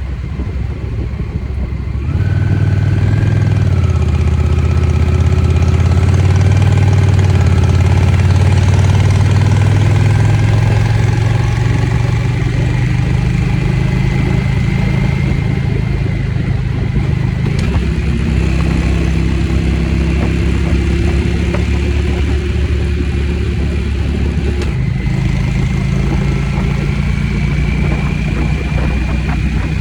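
Motorcycle engine running under way as it is ridden, picking up about two seconds in, then cruising with a few gear changes that step the engine note.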